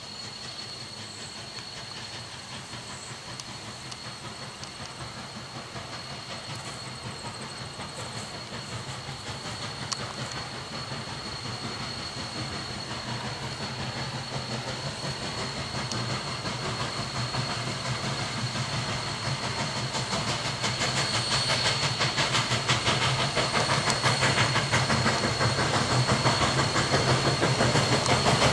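Narrow-gauge train approaching, growing steadily louder throughout, with a rhythmic clatter that becomes plain in the last several seconds.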